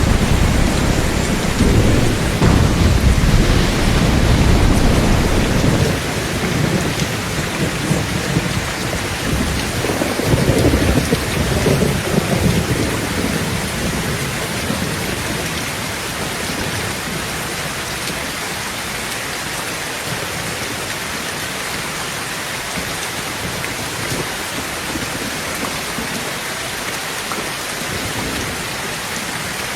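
Heavy rain falling on a tin tent roof, with two long rolls of thunder: one from the start lasting about six seconds, another around ten seconds in. After that the rain goes on steadily alone.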